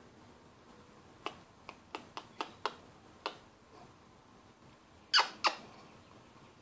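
Pet budgerigar calling: a quick run of short, sharp chirps, then two louder, harsh squawks about five seconds in.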